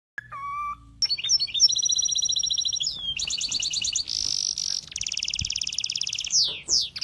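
A bird singing a varied song of high whistles, fast trills and buzzy notes, with two quick downward-sweeping whistles near the end.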